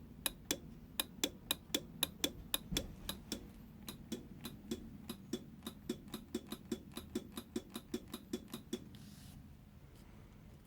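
A steady run of sharp clicks over a low hum, about three a second and quickening to about four a second, stopping about nine seconds in.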